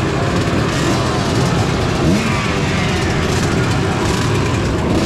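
Several motocross bikes' engines idling and revving together while lined up at the start, their pitches repeatedly rising and falling in overlapping blips of the throttle.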